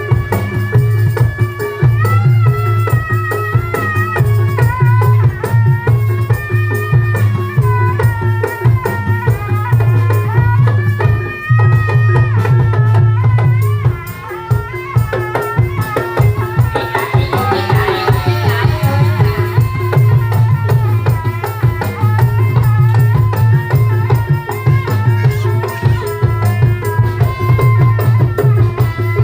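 Live Javanese folk music for a dawangan (barongan) street performance: drums and rattling percussion keeping a steady beat under a wavering, sliding melody line.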